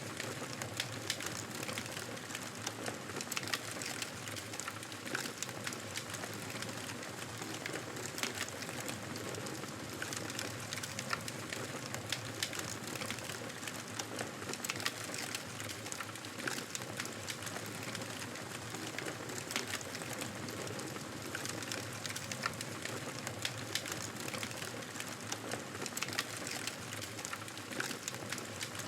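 Wood campfire burning, with a steady hiss and frequent small crackles and pops.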